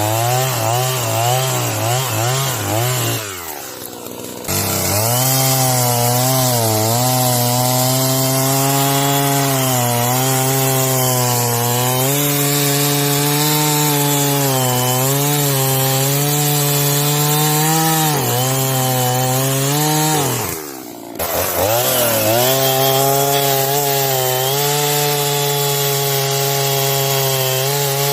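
Efco MT3710 two-stroke chainsaw running at high revs and cutting through wood, its engine pitch wavering and dipping under the load of the cut. Twice, a few seconds in and about two-thirds of the way through, the engine briefly eases off and drops in pitch before revving back up.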